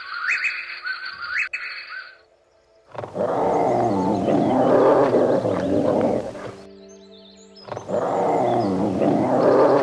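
A large animal roaring twice, each roar lasting about three and a half seconds, over background music. In the first two seconds a short, higher-pitched call repeats before the roars.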